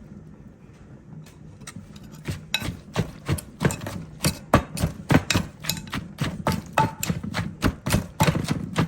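Pestle pounding ingredients in a mortar, mixing a salad, a quick series of knocks at about three strokes a second beginning a couple of seconds in.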